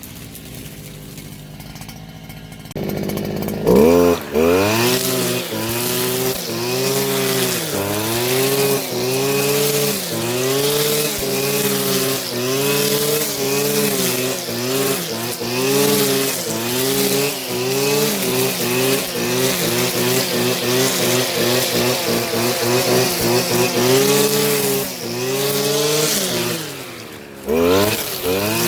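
Gas string trimmer engine revved up and down in a steady rhythm while cutting tall grass, its pitch rising and falling about every second and a half. It comes in about four seconds in and drops away briefly near the end.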